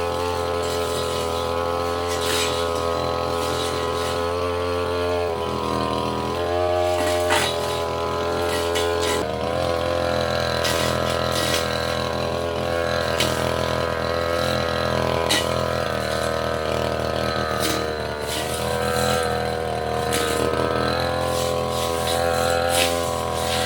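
Tasco petrol brush cutter running at high speed, its engine pitch dipping and recovering several times as the blade cuts through brush, with scattered sharp ticks.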